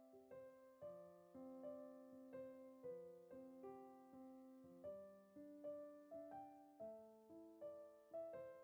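Quiet background piano music, a slow melody of single notes struck about two a second, each fading away.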